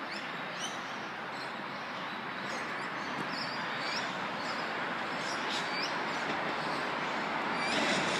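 X'Trapolis 100 electric train approaching along the track, its steady wheel-on-rail noise growing slowly louder, with birds chirping over it.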